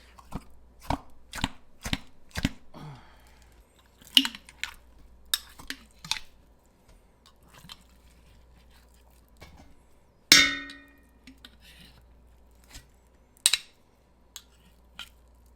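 A kitchen utensil rapping and scraping on a food container and pot to knock stuck leftovers loose: sharp knocks about two a second at first, then scattered clicks. About ten seconds in, one loud metallic clang rings on briefly, like a pot being struck.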